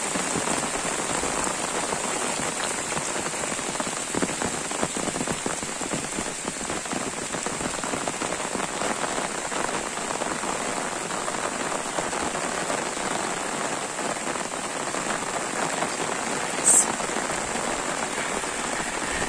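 Steady rain falling and pattering on foliage and a wet dirt track. A short high squeak stands out near the end.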